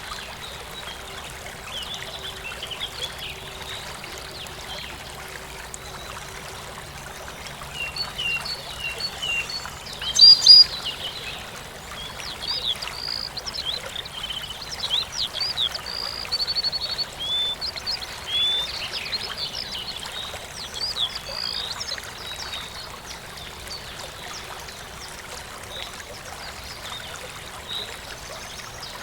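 A stream trickling and running steadily, with small birds chirping in quick, rapid calls through the middle stretch, including a brief louder burst about ten seconds in.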